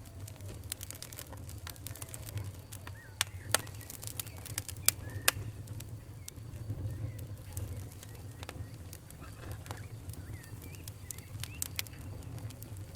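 Wood fire burning in a fireplace: a steady low rumble with constant small crackles and a handful of sharper, louder pops a little before the middle.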